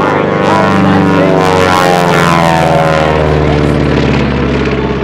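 Beech 18's twin radial engines and propellers running hard in a low pass, the engine note dropping in pitch about two seconds in as the aircraft goes by.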